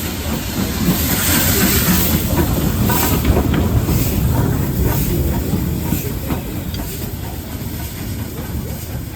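Train passing close by on a heritage railway: a loud rumble that swells a second or two in and then eases, a burst of hiss about a second in, and wheels clicking over rail joints.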